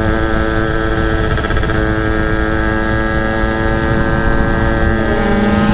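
Yamaha Force 1 underbone's two-stroke single-cylinder engine running at steady revs while cruising, with wind rushing over the microphone.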